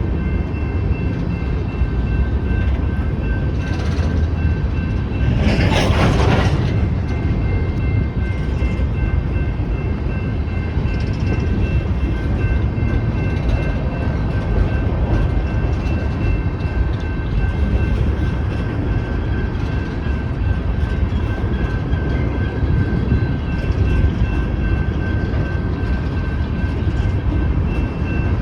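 Cars of a loaded BNSF coal train rolling past the crossing: a steady, heavy low rumble of wheels on rail, with a few thin, steady high-pitched tones above it. A louder burst of noise stands out about six seconds in.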